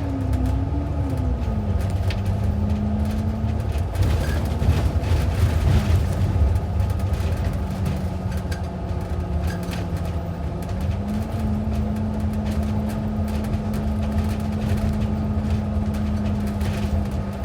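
City bus heard from inside the cabin, with a steady low rumble. Over it a drivetrain whine rises and falls as the bus changes speed, holds steady for a long stretch, and drops away near the end.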